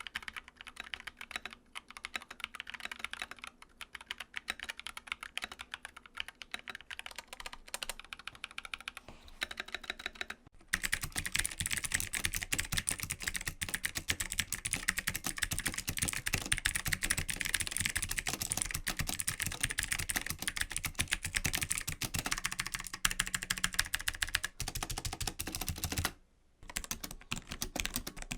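Continuous typing on mechanical keyboards, keys clicking rapidly. About ten seconds in it changes abruptly to a louder, brighter-sounding keyboard, and there is a brief break near the end before typing resumes on another keyboard.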